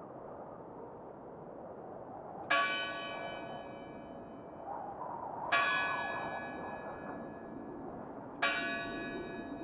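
A bell struck three times, about three seconds apart, each strike ringing out and fading, over a steady background hiss.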